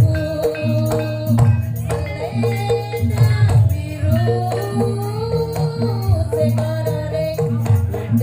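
Live gajah-gajahan band music: a steady bass line and hand-drum beat with jingling percussion, under a melody with a singing voice.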